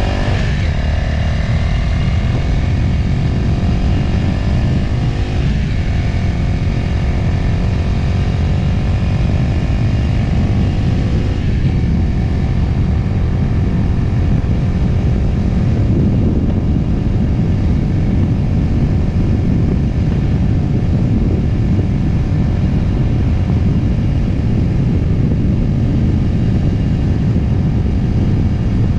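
Motorcycle engine heard from on board, its pitch climbing as the bike speeds up, with a gear change right at the start and another about five seconds in. From about twelve seconds on the engine note fades under a steady low rumble of wind and road noise.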